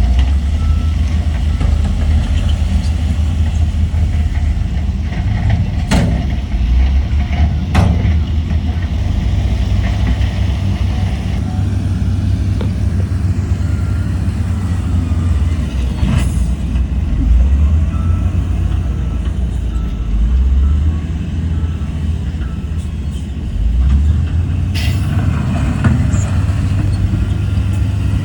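Heavy diesel earthmoving machinery, dump truck and bulldozer engines, running steadily with a deep rumble. A few sharp clanks come through, and a short hiss near the end.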